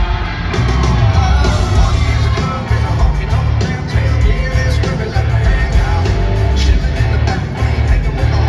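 Live country-rock band playing loud, with heavy pulsing bass, a singing voice over it and yells from the crowd.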